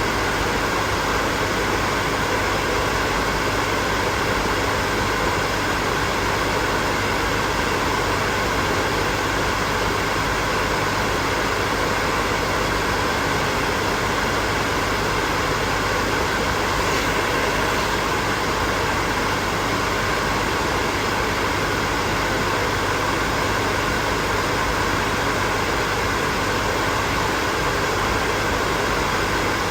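Hair dryer running steadily: an even rushing of blown air with faint steady tones in it, unchanging throughout.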